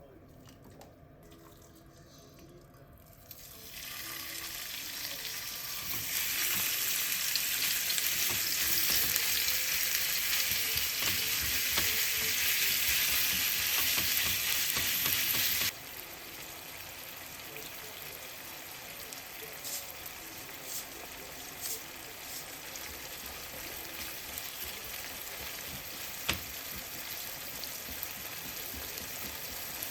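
Food sizzling in a frying pan, starting about three and a half seconds in. It is loudest for several seconds, then drops suddenly to a quieter, steady sizzle with a few light clicks of a utensil stirring.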